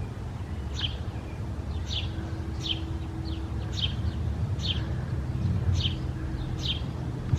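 A bird calling outdoors in short, high, down-slurred chirps repeated about once a second, over a steady low rumble.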